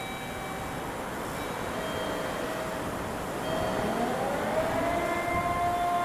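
Container freight train's wagons rolling away over the rails in a steady rumble. About three and a half seconds in, a whine rises in pitch and then holds steady over it.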